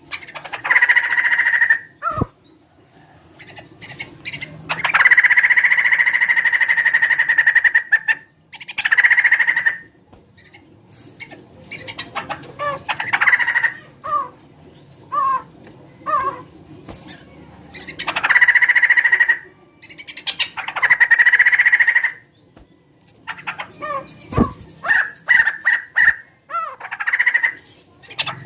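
Poksay (laughingthrush) calling: a series of loud, harsh, drawn-out calls lasting one to three seconds each, with quick short notes between them.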